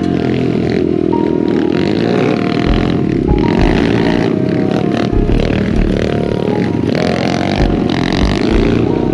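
Pit bike engines running and revving, mixed with a music track whose heavy bass beat comes in about three seconds in.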